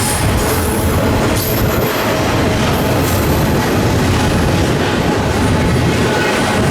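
Freight train rolling past: a steady loud rumble of wheels on the rails, with a faint thin squeal of wheels.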